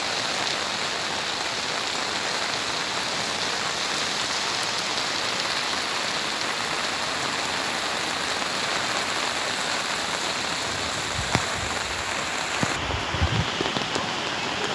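Steady rushing noise of a swollen flood river in full spate. A few low thumps come near the end.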